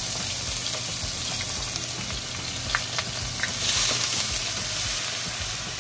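Chopped green seasoning, onion and peppers sizzling in hot avocado oil in a stainless steel pan as they are stirred in with a wooden spoon. There are a few light knocks of the spoon, and the sizzle swells briefly about two-thirds of the way in.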